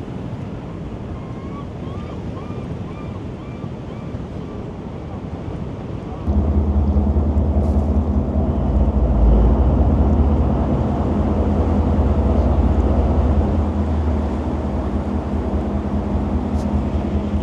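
Wind and water rushing past a moving tour boat, with a short run of faint chirps early on. About six seconds in, a loud, steady low drone of the boat's engine comes in suddenly and runs on.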